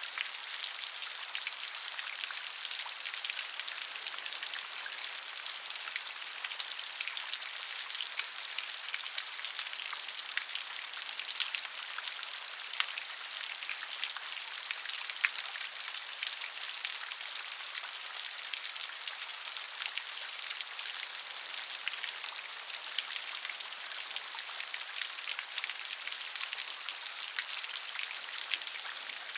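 Rain falling steadily: an even hiss dotted with many small ticks of individual drops, with no change in strength.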